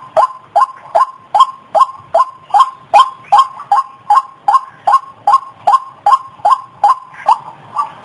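White-breasted waterhen (ruak-ruak) calling: a short, harsh note repeated steadily at about two and a half calls a second, without a pause.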